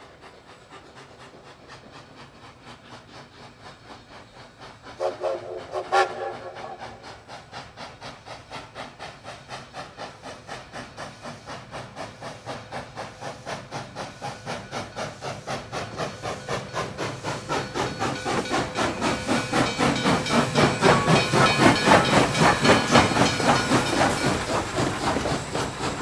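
Steam locomotive: a short whistle blast about five seconds in, then its exhaust chuffing at an even pace of about three beats a second, growing louder as the engine approaches and passes.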